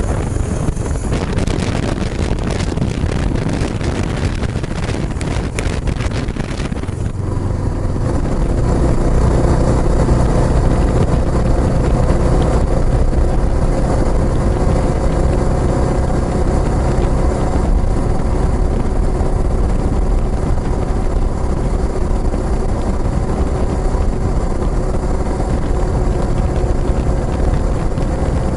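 Exhaust note of a Kawasaki Estrella's single-cylinder engine breathing through a Yamato aftermarket muffler, running steadily; it grows louder and fuller about seven seconds in.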